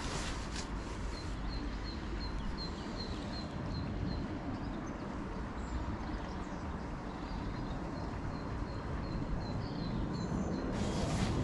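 A small bird repeating a short high call note about three times a second, in two runs, over a steady low outdoor rumble. Near the end there is a brief rush of hiss.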